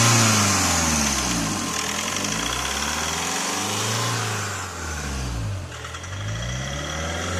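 Skoda Rapid engine revving up and down on its own, its speed rising and falling several times, as a laptop-driven injector routine aimed at curing injector knock runs through its automatic step.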